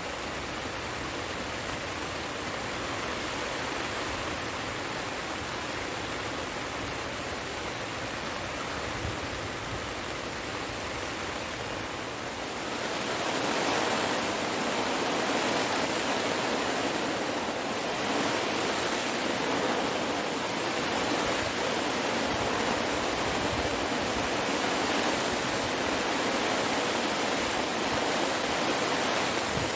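Heavy rain falling steadily, growing louder about halfway through as the downpour thickens.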